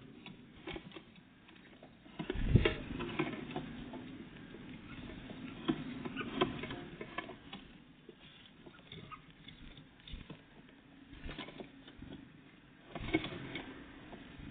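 Small birds, great tits and blue tits, scrabbling and pecking at a feeder: irregular light taps and clicks of claws and beaks on the feeder. There are louder knocks about two seconds in and again near the end.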